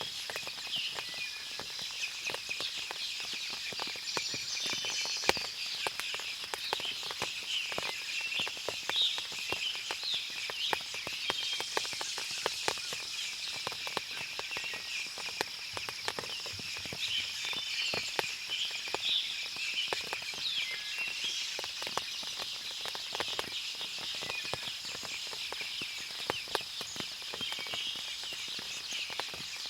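Forest ambience after heavy rain: many birds chirping and calling over a steady high-pitched insect drone, with frequent small ticks scattered throughout.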